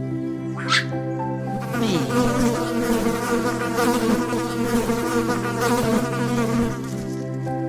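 Insect buzzing, a dense wavering drone that swells about two seconds in and eases off near the end, over steady held background tones.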